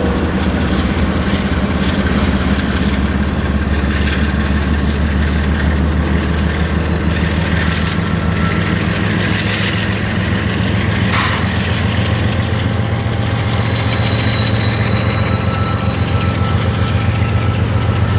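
Long BNSF Z freight train rolling slowly past, a loud, steady low rumble with a diesel engine's drone.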